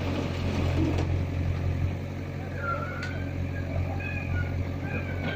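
Sonalika DI 47 RX tractor's three-cylinder diesel engine running steadily with an even low hum. Faint high warbling tones come in over it about halfway through.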